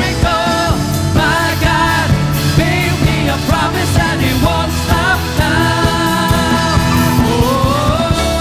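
Worship band playing a song with singing over drums and bass; near the end the voice glides up into a long held note.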